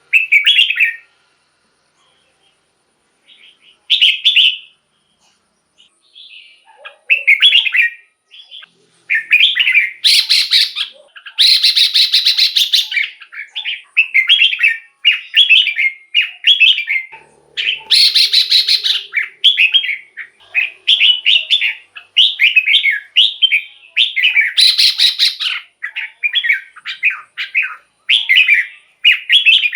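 Red-whiskered bulbul singing: a short whistled phrase at the start and another about four seconds in, then quick, warbling phrases almost without a break from about seven seconds on, mixed with a few harsher, rasping notes.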